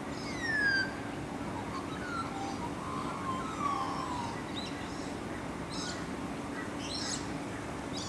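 Bird calls: a few clear whistled notes gliding downward, the loudest about half a second in, then short high chirps near the end, over a steady low hum.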